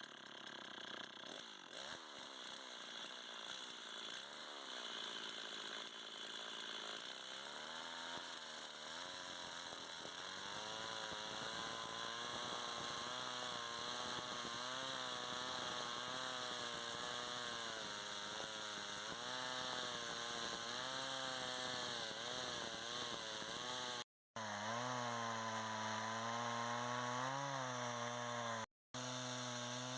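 A small motor, like a power tool's, running steadily, its pitch slowly wavering up and down as if under changing load.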